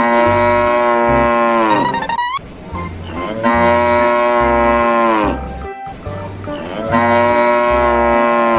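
A cow mooing three times, each a long call of about two seconds that drops in pitch at the end, over background music with a steady bass beat.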